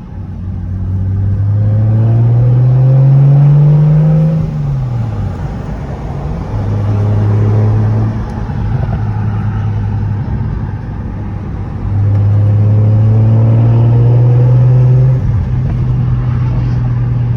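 Single-turbo BMW 335i's turbocharged inline-six accelerating through the gears: the engine note climbs for about four seconds, falls away at a gear change, holds steady, then pulls hard again about twelve seconds in and drops at another shift near fifteen seconds.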